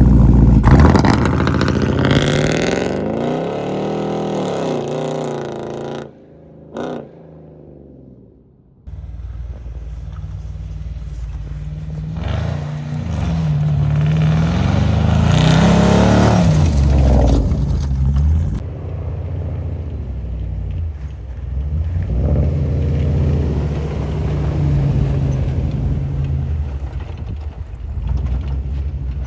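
Land Rover Defender 6x6 engine running and revving as it is driven, the pitch rising and falling with the throttle. It drops away for a few seconds about six seconds in, then returns and runs on steadily.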